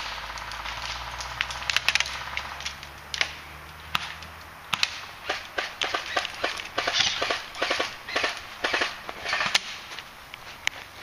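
Airsoft guns firing: a brief buzzing rattle of rapid fire near the start, then many sharp snaps and cracks of shots and BB hits in quick clusters, busiest between about five and ten seconds in.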